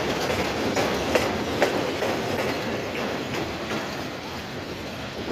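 Wheels of a passing container freight train's flat wagons clattering over the rail joints, with sharp clicks among a steady rumble. The sound eases off slightly near the end as the brake van goes by.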